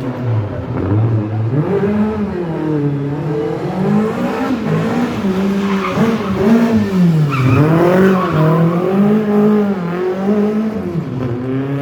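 Rally car engine revving up and down over and over, its pitch swinging about every second or two, with tyres squealing as the car is drifted.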